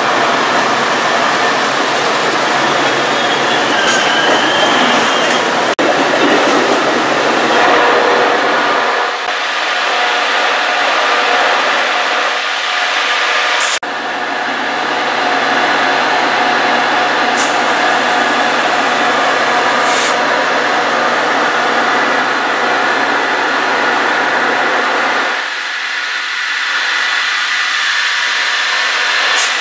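Metra commuter train passing close by: bilevel coaches rolling past with a steady roar and ringing high wheel tones, then the diesel locomotive going by with a low steady engine hum.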